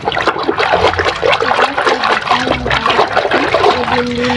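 Water splashing and trickling as muddy plastic toys are rinsed and scrubbed by hand, with irregular spatters.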